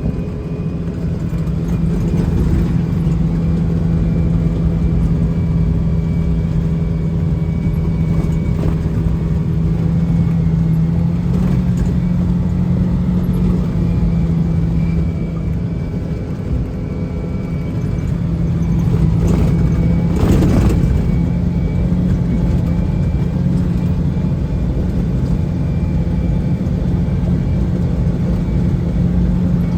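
Engine and drivetrain of a Kawasaki six-seat side-by-side UTV running steadily under way, heard inside its closed cab. The engine note shifts a little about eleven seconds in, and a brief hiss rises and fades about twenty seconds in.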